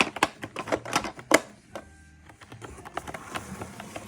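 Rapid, irregular clicking and tapping of a hard plastic cat toy, with one louder click about a second and a half in and a short lull before the clicks start again.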